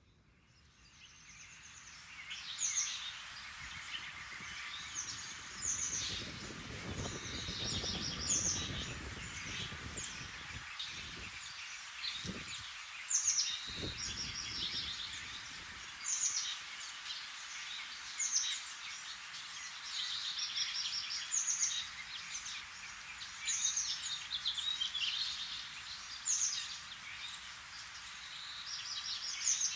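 Small birds chirping in short high calls, repeated every second or two, over a steady outdoor hiss, with a few low rumbles near the middle.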